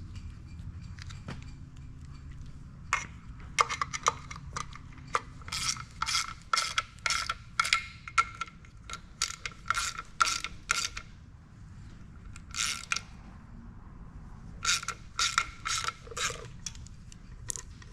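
Hand ratchet wrench clicking as it is swung back and forth on a bolt. The clicks come in quick runs with short pauses between them.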